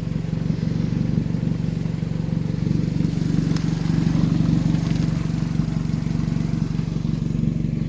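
Mazda Protege's four-cylinder engine idling steadily, its note swelling a little for a couple of seconds around the middle.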